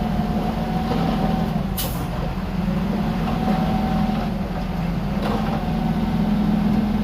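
Heavy diesel earthmoving machinery working, its engine hum swelling and dipping under load with a faint steady whine above it. There is one short sharp hiss about two seconds in and a couple of faint knocks later.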